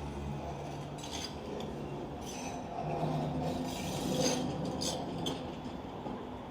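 Manchester Metrolink M5000 tram moving slowly, its electric traction gear giving a low hum with held tones that shift in pitch, and several short high clinks from the running gear.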